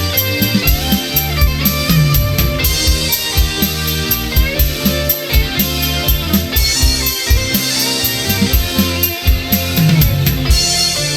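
Instrumental karaoke backing track with no vocals: a steady drum-kit beat under bass and electric guitar lines.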